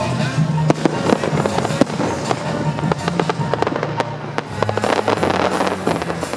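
Fireworks exploring the sky in rapid succession: many sharp bangs and crackles, turning into a dense crackling fizz about two thirds of the way in, with music playing.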